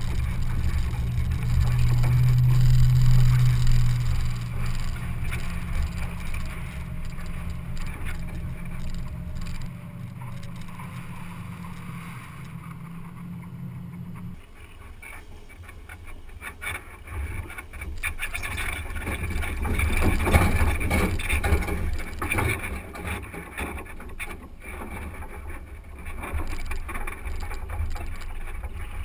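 Off-road vehicle driving a sandy dirt track, heard through a camera mounted on the vehicle: a steady low engine drone for the first half, then, after an abrupt change about halfway through, wind buffeting the microphone over rough road noise.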